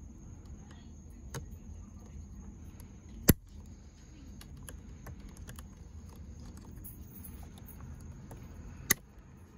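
Light handling noises of plastic steering-wheel parts and wiring connectors: scattered small clicks and taps, with one sharp click a little over three seconds in and another near the end.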